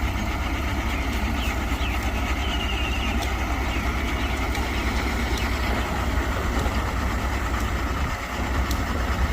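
Mitsubishi BD2G bulldozer's diesel engine running steadily at an even rumble, with a short dip in level about eight seconds in.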